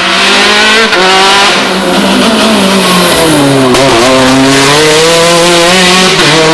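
Rally car engine at high revs, loud and close, its pitch climbing and then dropping back about a second in, near four seconds and near the end.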